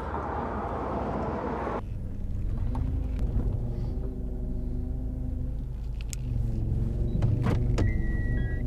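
Outdoor wind-like noise that cuts off abruptly, then a car's engine running steadily, heard from inside the cabin, with a few sharp clicks about six to seven seconds in.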